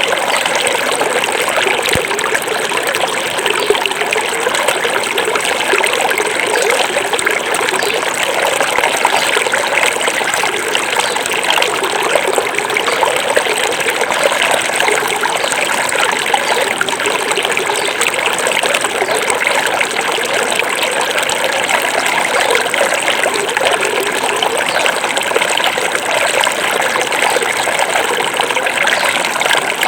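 Small forest river flowing over rocks: a steady rush of water with trickling and gurgling, loud and unbroken.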